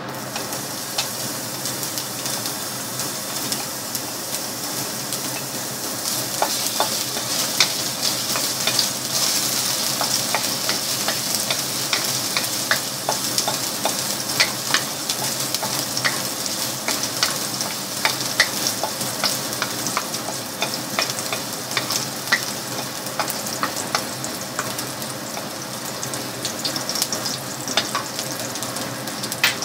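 Minced garlic sizzling in hot oil in a wok, with frequent sharp crackles, stirred with a wooden spatula. The sizzle grows louder after the first few seconds.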